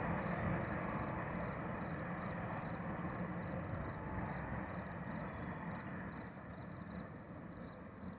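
Amtrak passenger train rolling away, its rumble fading steadily.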